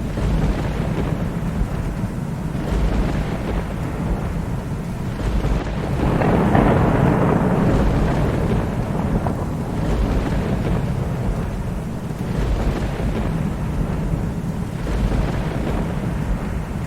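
Thunderstorm: steady rain with low rolling thunder throughout. The thunder swells louder about six seconds in and eases off a few seconds later.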